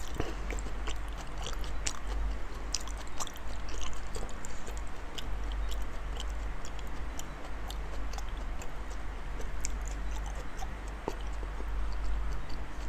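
Close-up chewing of a large mouthful of raw salmon: scattered soft, wet mouth clicks and smacks, over a steady low hum.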